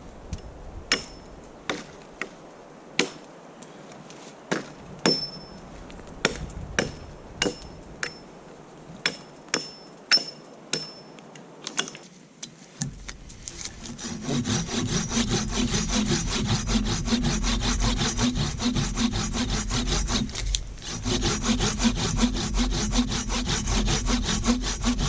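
A hand saw cutting through a pine branch. A few sharp, irregular clicks and snaps come first, then from about halfway the saw runs in quick, steady strokes, with a brief pause near the end.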